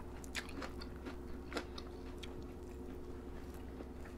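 Two people chewing and smacking their lips as they eat rice, curry and raw vegetables with their fingers: scattered soft mouth clicks. A steady low hum runs underneath.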